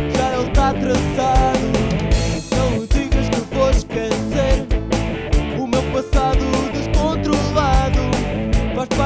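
Rock band playing an instrumental break: drums keep a steady beat under bass and guitars, with a lead guitar line that bends up and down in pitch. There is a cymbal crash about two seconds in.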